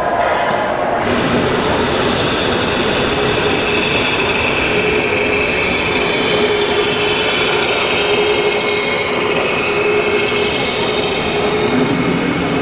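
Electric drive motors and gearboxes of 1/14-scale RC construction machines running, a steady mechanical whine over a grinding rumble.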